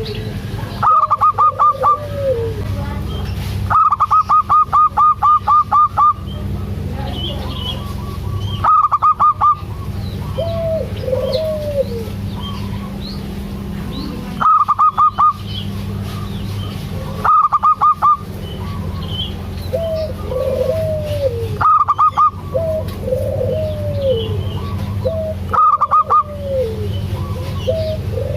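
Zebra dove (perkutut) cooing in repeated arching phrases. Every few seconds there is a short, loud burst of rapid, evenly spaced higher notes, and a steady low hum runs underneath.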